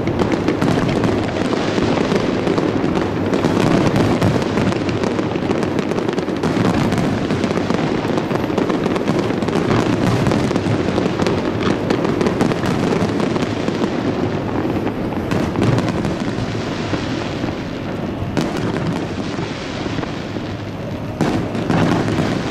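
Aerial fireworks barrage: many shells bursting in quick succession in a dense, continuous run of booms and crackle. It eases somewhat in the last few seconds before a sharp bang near the end.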